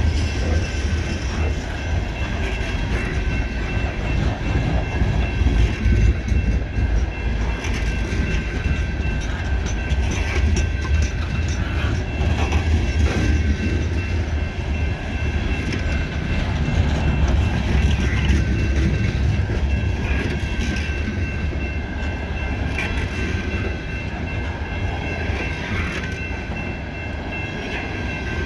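Loaded coal hopper cars of a CSX freight train rolling steadily past: a continuous heavy rumble of steel wheels on rail, with scattered clacks from the wheels and track.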